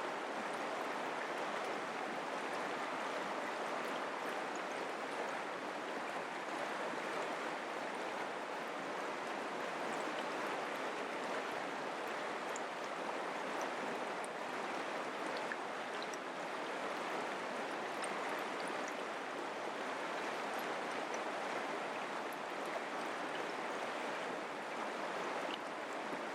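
Mountain creek water flowing in a steady, even rush.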